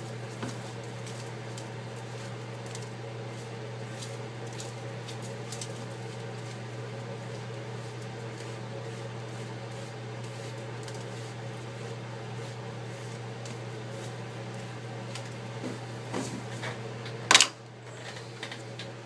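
Steady hum of a small electric fan motor, with scattered faint ticks and clicks of glass being worked and one sharp, loud click about seventeen seconds in, after which it is quieter.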